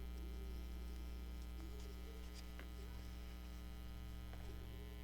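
Steady electrical mains hum, with a few faint ticks of paper and thread being handled as a needle is worked through a paper signature.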